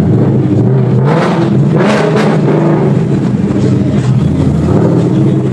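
Loud car engine exhaust running, with a couple of brief surges in revs about one to two seconds in.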